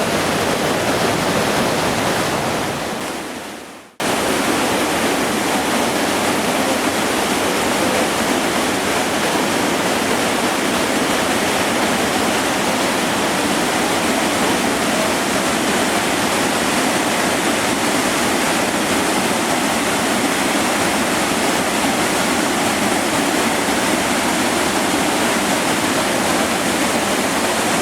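Waterfall: a loud, steady rush of falling water. It fades away about three seconds in and cuts back in suddenly a second later.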